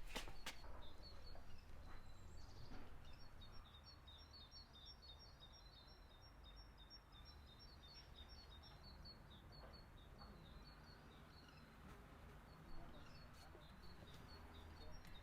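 Faint birdsong: small birds chirping in quick, short, high notes, over a low steady background rumble. A few sharp knocks sound right at the start.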